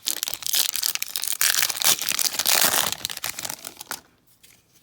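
A baseball card pack's wrapper being torn open and crinkled, a dense crackling that stops about four seconds in.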